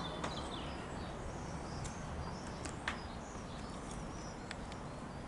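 Small birds chirping, short high calls scattered through, over a steady low rumble of outdoor background noise.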